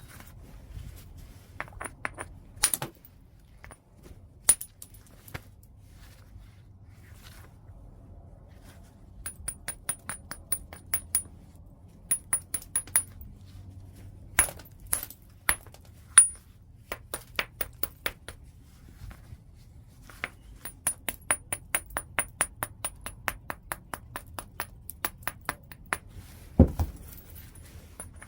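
Flintknapping on a large piece of white chert: sharp, clinking taps and strikes of a knapping tool on the stone. Some come singly, others in quick runs of several a second, with one heavier, duller thud near the end.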